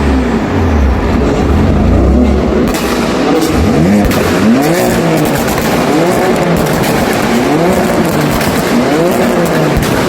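BMW F82 M4's twin-turbo inline-six engine, low and steady for the first few seconds, then revving up and down in quick repeated rises and falls, about one a second.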